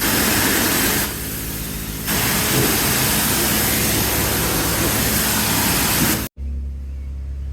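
Car wash pressure-washer wand spraying water onto shoes: a loud, steady hiss that eases for about a second near the start and then comes back full. Near the end it cuts off abruptly, leaving a low, steady hum of machinery.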